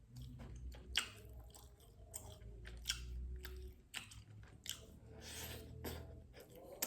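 Close-up chewing of a mouthful of fish with green-chilli seasoning, with irregular sharp clicks from the mouth and teeth, the louder ones about a second and three seconds in and at the very end.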